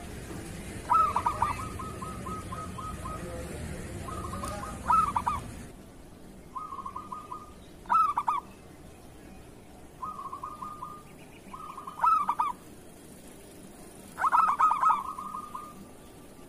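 Zebra dove (perkutut) singing: about five repeated cooing phrases, each a quick rolling run of notes with a louder accented coo. A low background hum under the first part stops suddenly about six seconds in.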